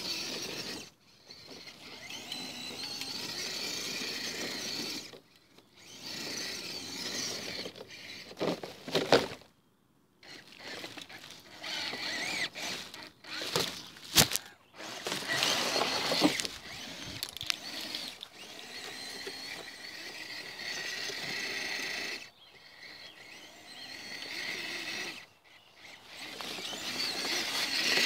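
Radio-controlled off-road trucks' motors and gears whining under throttle in stretches of several seconds, with short pauses between, and a few sharp knocks about midway.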